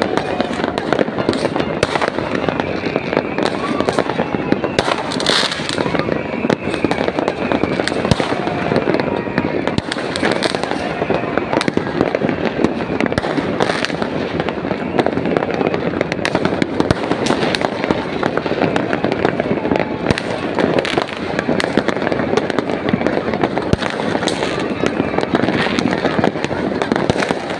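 Many fireworks going off at once in a dense, continuous barrage of cracks and pops, with no break in the noise.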